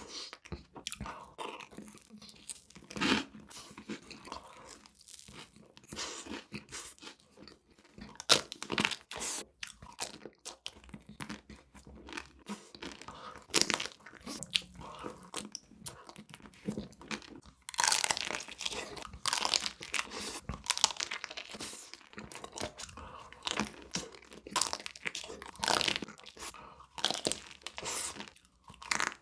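Close-miked biting and chewing of crunchy sweets: a string of sharp, irregular crunches with softer chewing between them, coming thickest in runs in the second half.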